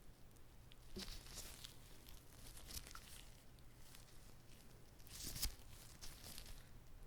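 Close-miked crinkling and tearing as a whole gimbap roll is handled for eating, in a few short crackly bursts, the loudest about five and a half seconds in.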